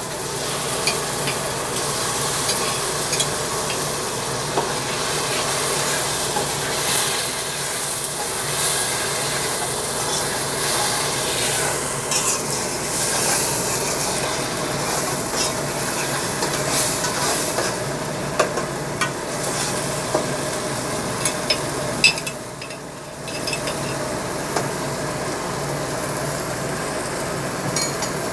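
Chopped onions and tomato paste sizzling in a pot on a gas stove while a spoon stirs them, with scattered clicks of the spoon against the pot. The sizzle drops off briefly about two-thirds of the way through.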